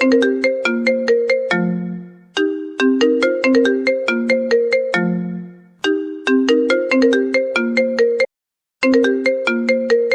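iPhone ringtone playing a short melody of quick, bright pitched notes that repeats about every three and a half seconds, each phrase ending on a low fading note. About eight seconds in it cuts off abruptly mid-phrase and starts again half a second later.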